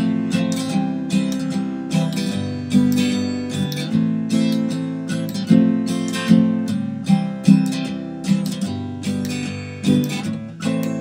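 Acoustic guitar strumming chords, instrumental with no singing, in a folk-country song.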